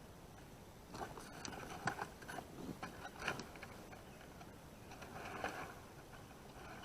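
Scattered clicks, taps and scraping from hands working with gear, in a cluster from about a second in and again briefly later.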